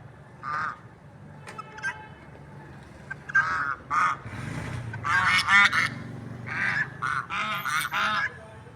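Domestic fowl giving short, harsh, repeated calls, a few at first and then a rapid run of them from about three seconds in.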